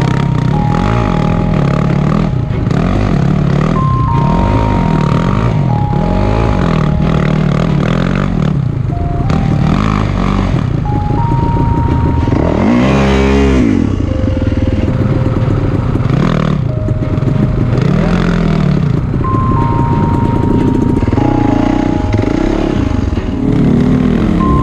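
Dirt bike engine revving up and dropping back again and again, every second or two, as the rider struggles to climb a steep, rocky hill, with one louder surge about halfway through. Background music plays over it.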